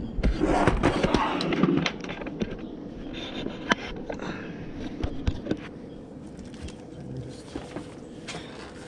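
Metal tools and parts being handled: a burst of scraping and clattering for about the first two seconds, then scattered sharp knocks and clicks.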